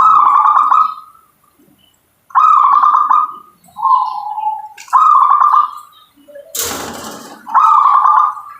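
Zebra dove (perkutut) cooing: five short trilled phrases of rapid pulsing coos, the last ending near the end. Between the fourth and fifth phrases there is a brief burst of noise.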